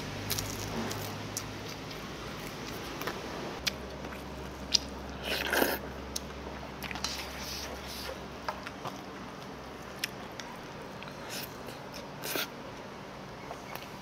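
Close-up eating sounds: a person biting and chewing crispy grilled food, with scattered crunches and a few louder bites.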